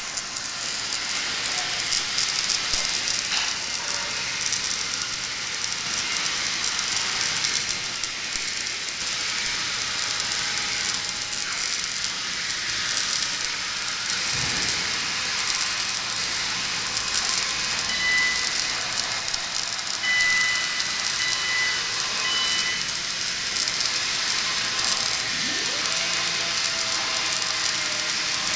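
Wire-feed (MIG) welding arc hissing and crackling steadily without a break.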